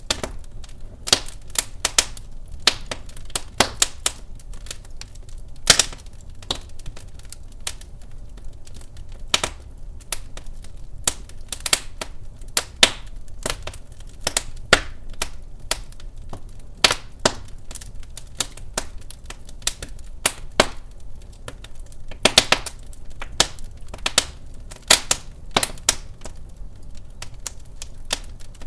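Wood fire crackling in a fireplace: irregular sharp pops and snaps, a few each second, over a low steady rumble of the flames.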